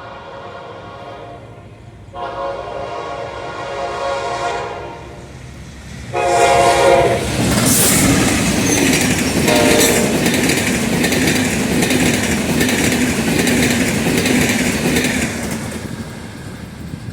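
A General Electric diesel locomotive sounds its multi-note horn three times, the last blast short. Then the train passes close by, loud, with the wagons clattering over the rail joints before fading near the end.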